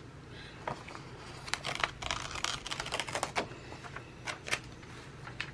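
Hands handling paper planner supplies on a desk: a run of irregular light taps, clicks and crinkly rustles, thickest in the middle, with a few more near the end.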